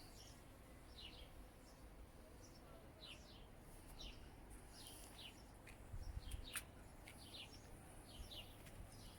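Faint bird chirps, short calls repeating every second or so, with a brief low rumble and a couple of clicks about six seconds in.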